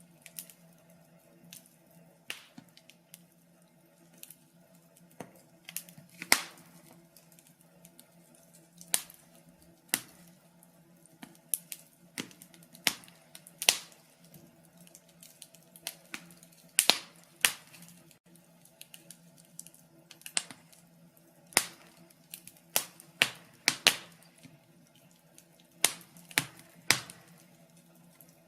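Wood fire in a fireplace crackling, with sharp irregular pops and snaps, a few of them loud, over a faint steady hum.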